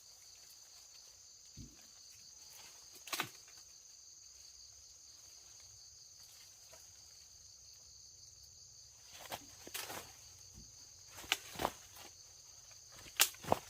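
Insects chirring steadily at a high pitch, with a few sharp knocks and clatters from handling, most of them in the last few seconds.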